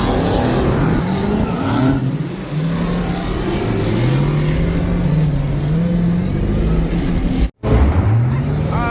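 V8 muscle car engine revving, its pitch rising and falling several times over a steady low rumble.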